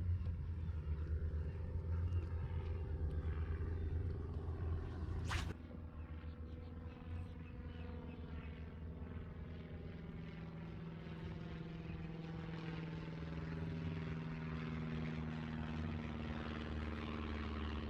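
Steady drone of an engine, its pitch drifting slowly, with one sharp click about five seconds in, after which the drone is a little quieter.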